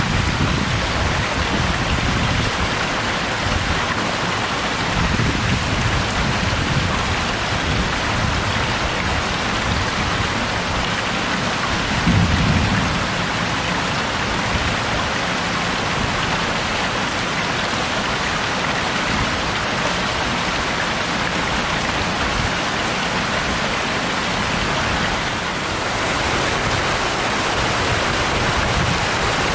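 Heavy rain pouring steadily during a thunderstorm, with a short low rumble about twelve seconds in.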